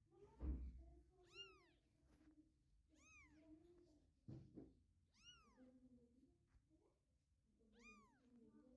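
Three-week-old kittens mewing: four short, high-pitched mews that rise and fall in pitch, about two seconds apart. A thump about half a second in, and another near the middle.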